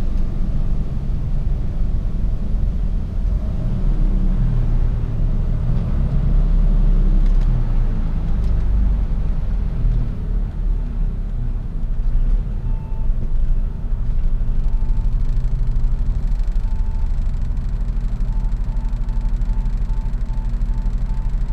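Mercedes-Benz Actros truck's diesel engine running with a steady low rumble as the truck drives. In the second half a short mid-pitched beep sounds a few times about two seconds apart, then repeats steadily about twice a second near the end.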